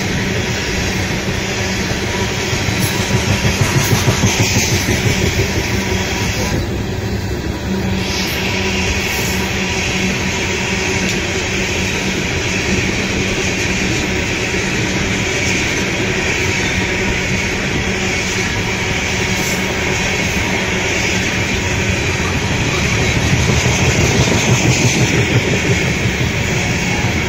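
Coal cars of a fast freight train rolling past on steel rails: a steady loud rumble with a quick, regular clickety-clack as the wheel sets pass, swelling a few seconds in and again near the end.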